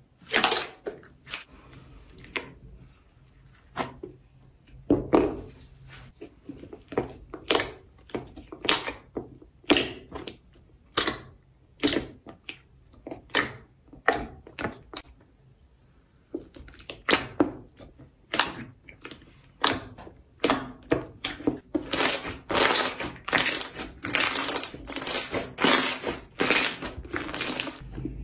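Slime being pressed and worked by hand, giving short sharp clicks and pops. They come sparse and irregular at first and grow quicker and denser over the second half.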